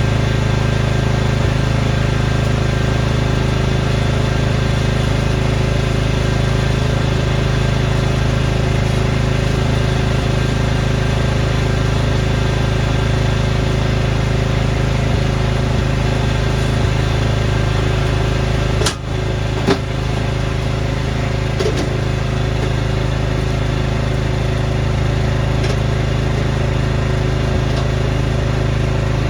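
Snowblower's small gasoline engine running steadily at high speed, with a brief dip in sound and two sharp knocks about two-thirds of the way through.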